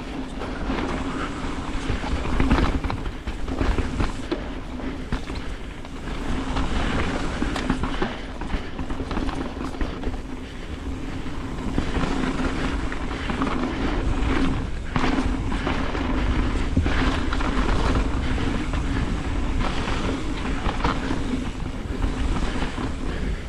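Carbon Ibis Ripmo full-suspension mountain bike descending a rough downhill race trail at speed: tyres on dirt, and chain and frame rattling and clattering over bumps, under steady wind noise on the camera microphone.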